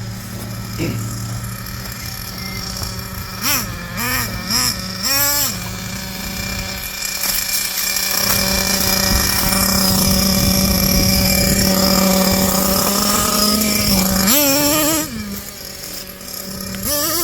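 Small two-stroke nitro glow engines of radio-controlled monster trucks running. Several quick throttle blips give way to a long stretch held at high revs. The revs drop and then climb again near the end.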